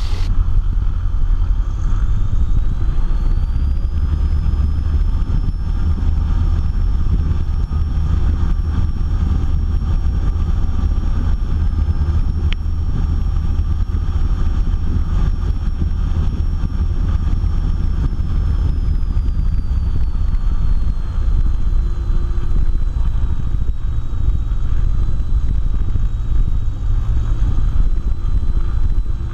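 Cessna 172's four-cylinder piston engine and propeller in an engine run-up before takeoff. It is brought up from idle about two seconds in with a rising whine, held at a steady higher speed, then eased down part way near the end.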